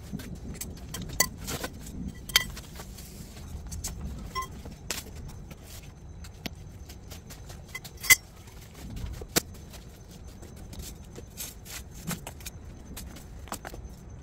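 Scattered metallic clicks and clinks from telescoping metal awning poles being lowered a notch. The loudest click comes about eight seconds in.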